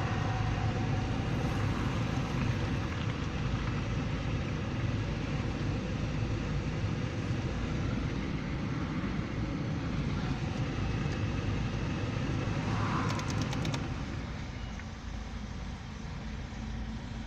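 Freight train rolling past: a steady rumble of wheels on rails, with some faint clicking, easing off about fourteen seconds in.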